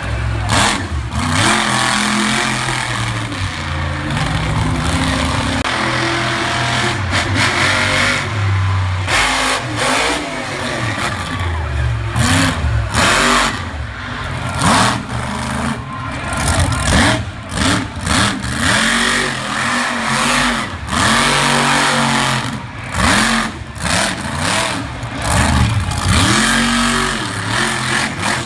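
Monster truck engine revving hard with the throttle blipped again and again: the pitch rises and falls every second or two and keeps cutting off suddenly between bursts.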